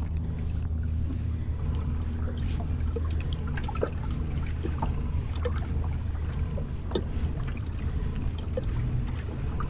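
Fishing kayak on the water: a steady low hum under small water plinks and trickles against the hull.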